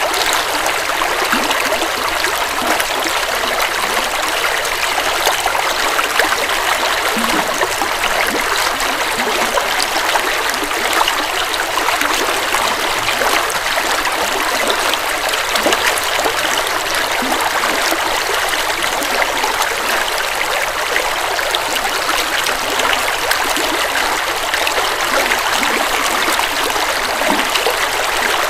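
River water flowing over rocks: a steady, loud rush with fine splashing and trickling.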